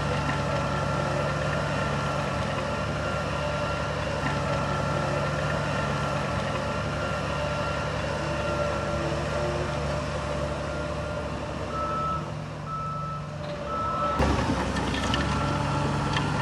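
Heavy construction vehicle's diesel engine running steadily while its reversing alarm beeps at an even pace. The engine briefly drops off a little after the middle, then comes back suddenly.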